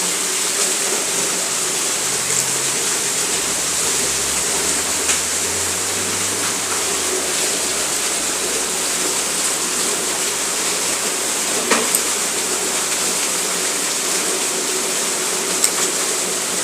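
Rainwater pouring down close by, a steady rushing hiss, with a few sharp ticks of drops striking near the microphone.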